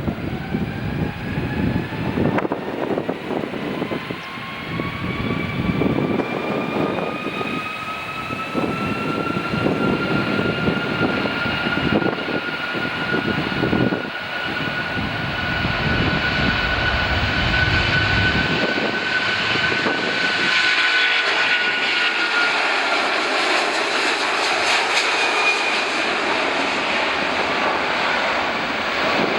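Airbus A330 KC3 tanker's twin Rolls-Royce Trent 700 turbofans at takeoff power. A whine rises in pitch over the first several seconds and then holds steady, over a rough low rumble that drops away about two-thirds of the way through.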